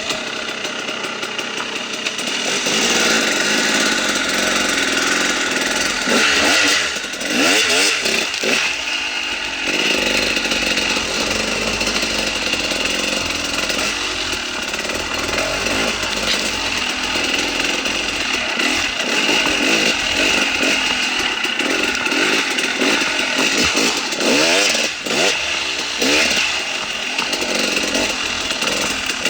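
KTM 300 XC-W's single-cylinder two-stroke engine running under way, revving up and down as the throttle is worked, with sharper rises in engine speed about a quarter of the way in and again near the end.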